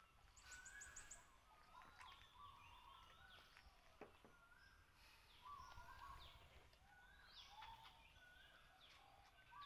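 Faint birdsong: short calls repeated about once a second, with other chirps and a quick run of high notes about half a second in, over a low background hum.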